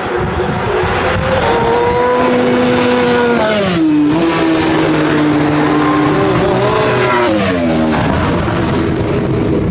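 Superbike racing motorcycles going by at race speed, engines loud at high revs. The engine note drops steeply twice, about three and a half and eight seconds in.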